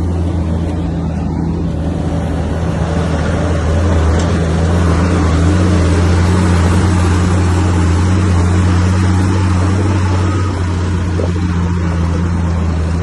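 Bulldozer's diesel engine running steadily under load, growing a little louder about four seconds in and easing again near the end.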